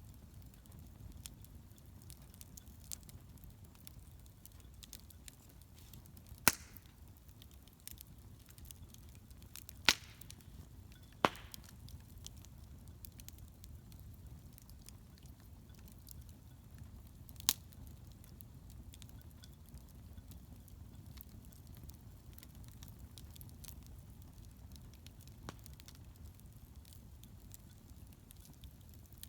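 Wood bonfire crackling, with small ticks throughout and four sharp, loud pops spread over the first two-thirds.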